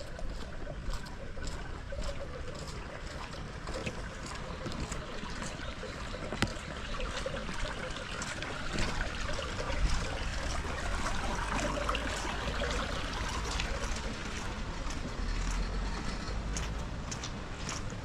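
Steady rain with water trickling and running, and many scattered sharp drip taps throughout.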